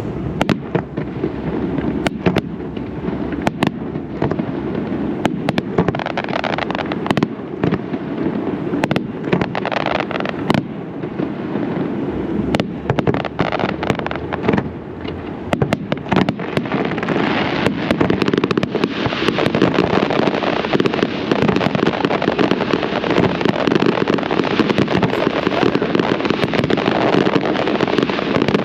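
Zambelli aerial fireworks display: shell bursts banging in quick succession over a steady crackle. Past the midpoint it thickens into a dense, near-continuous barrage.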